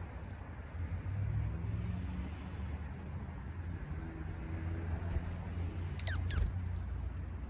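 A few short, high bird chirps and quick falling whistles about five to six and a half seconds in, over a steady low rumble like a distant engine.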